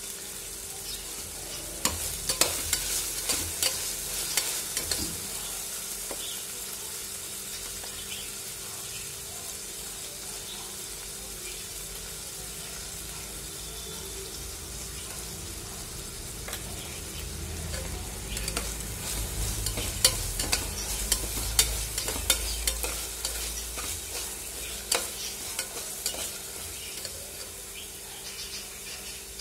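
Onions and tomatoes sizzling in hot oil in a steel pressure cooker while a perforated steel spatula stirs them, clicking and scraping against the metal. The scraping comes in two spells, about two seconds in and again past the middle, and is loudest there.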